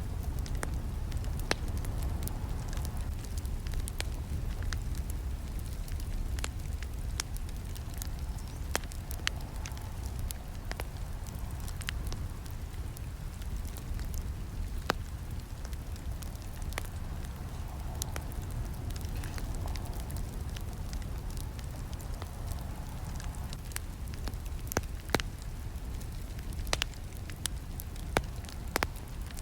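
Campfire crackling: scattered sharp pops and snaps over a steady low rumble of the burning fire, with several louder snaps near the end.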